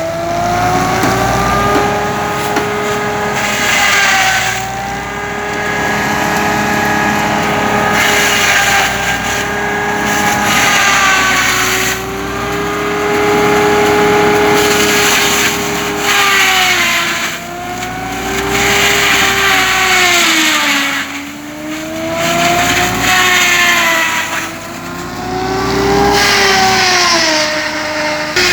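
Belarus 510 tractor's diesel engine running under working load, its pitch holding steady for long stretches, then dipping and recovering several times in the second half as the engine speed changes.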